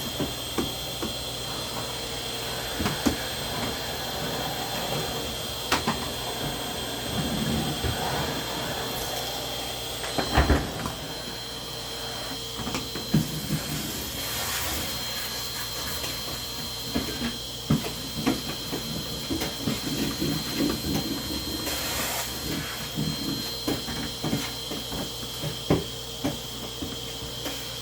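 A steady machine hum with a thin high whine, under scattered knocks and clicks.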